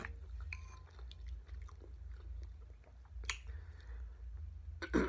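A person chewing a mouthful of food, soft wet mouth sounds with scattered small clicks and one sharper click a little past three seconds in.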